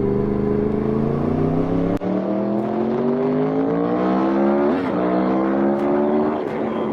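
Motorcycle engine accelerating under load, its pitch rising steadily through the gears with short breaks at gear changes about two seconds in and again near five seconds.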